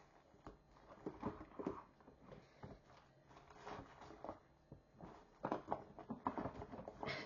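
Faint handling noise: scattered small clicks, taps and rustles of objects being moved about on a table, with a few louder knocks near the end.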